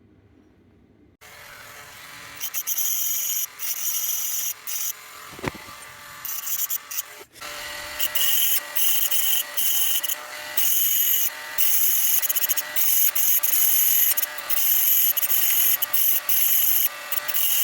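Small high-speed rotary tool whining in short on-off bursts. It starts about a second in.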